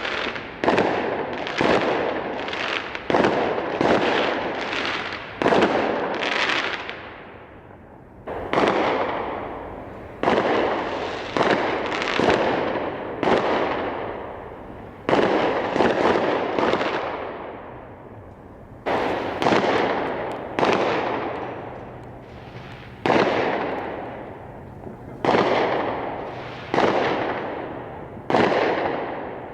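A fireworks display: a rapid series of bangs, roughly one a second, each trailing off over a second or so, with two brief lulls.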